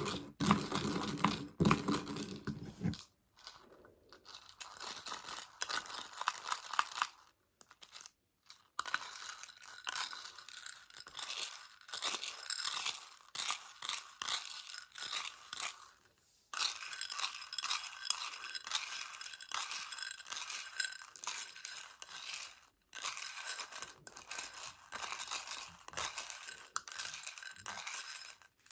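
Tiny Choco Baby chocolate pellets and their plastic container being tapped, rattled and clicked, in dense bursts with short pauses. A fuller, lower rattle for the first three seconds gives way to lighter, crisper clicking.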